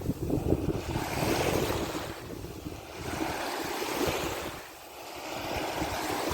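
Wind buffeting the microphone over rushing sea water while a windsurf board sails. The noise swells and eases every second or two.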